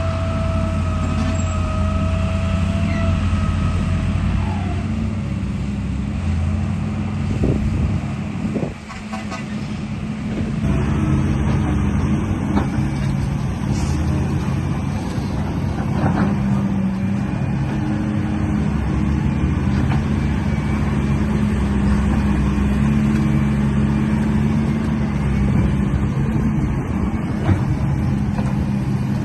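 A vehicle engine running with a steady hum. The sound briefly drops away about eight or nine seconds in, then carries on with a slightly different steady hum.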